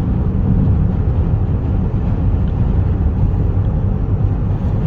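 Steady low rumble of a car driving, road and wind noise heard inside the cabin.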